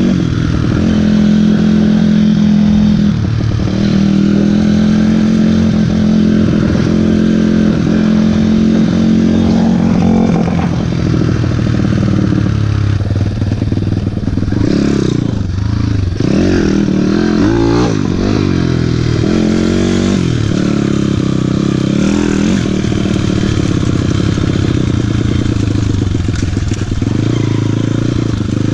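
YCF 150 Classic pit bike's single-cylinder four-stroke engine being ridden: it holds a steady throttle at first, then revs rise and fall repeatedly through the middle as the rider works the throttle and gears.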